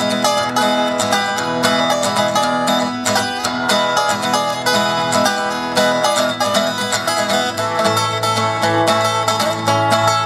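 Instrumental break of a country-style blues song played on acoustic plucked string instruments: a quick run of picked notes over a steady rhythm.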